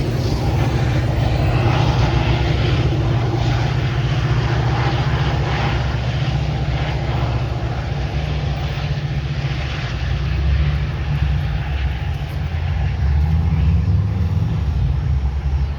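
A train's diesel engine running with a steady low drone, with rolling noise that is strongest in the first half and eases after about eight seconds.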